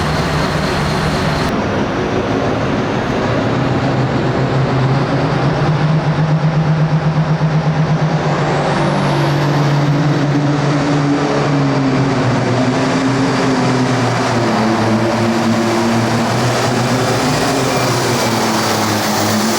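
Hot farm class pulling tractor's turbocharged diesel engine running hard under load during a sled pull. The engine note wavers up and down in pitch.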